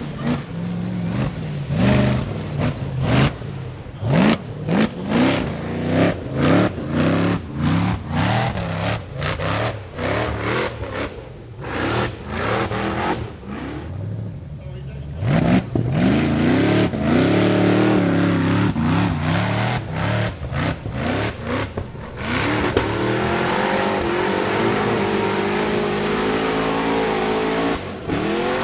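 Rock bouncer buggy's race engine, revved in quick repeated throttle blips that rise and drop as it works up the climb. About two thirds of the way through it settles into a steady high-rev run.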